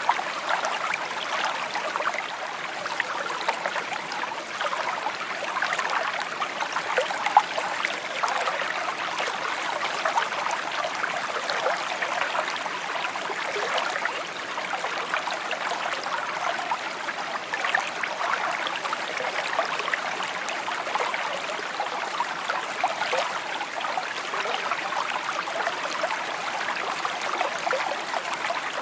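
A small stream babbling and trickling over stones, a steady rush of water flecked with many small splashes and gurgles.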